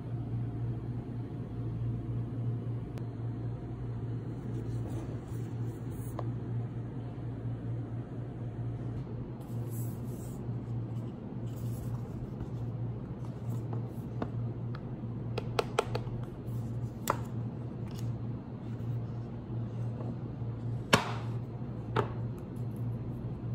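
Hands handling an Apple Watch box and its packaging: several light clicks and taps in the second half, the loudest near the end, over a steady low hum.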